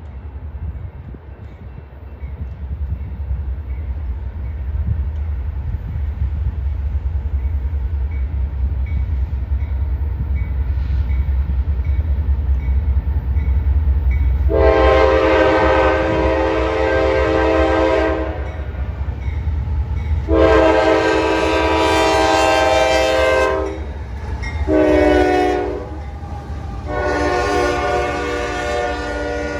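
Diesel freight locomotives approaching with a low rumble that builds, then sounding a multi-chime air horn about halfway through in the long-long-short-long pattern, the standard signal for a grade crossing.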